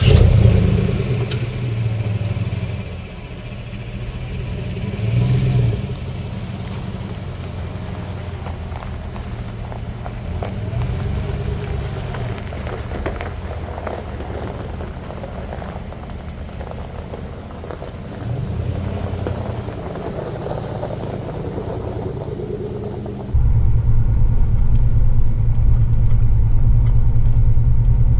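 A car engine starting and then running as the car drives, a steady low rumble of engine and road. About 23 seconds in, the rumble abruptly becomes louder and deeper.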